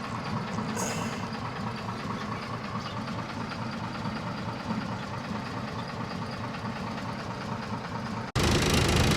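Bus engine running steadily, heard from on board: a low rumble with a fast even pulse. Near the end it cuts off abruptly and a louder engine rumble takes over.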